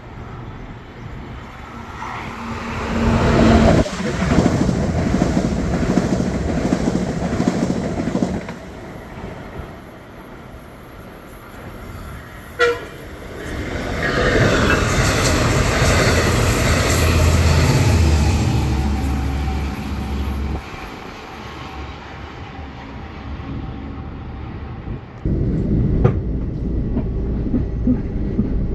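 Long Island Rail Road train passing on the Main Line: rumble and rattle of the cars and wheels swelling and fading in waves, with a sharp short sound about twelve seconds in.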